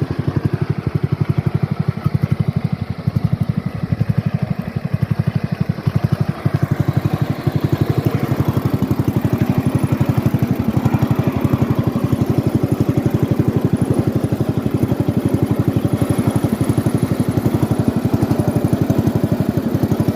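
Allis-Chalmers B-10 tractor's engine running steadily, a fast, even train of firing pulses.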